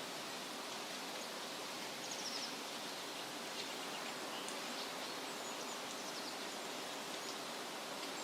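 Steady wind rustling through leaves, with faint, brief bird chirps scattered through it.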